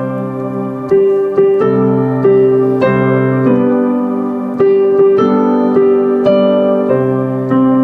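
Slow piano music: sustained chords and single notes, a new one struck about every half second to a second.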